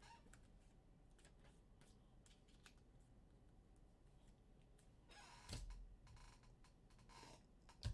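Faint handling of trading cards at a table: scattered light clicks and card-sliding sounds, with one brief louder rustle about five seconds in and a sharp click near the end.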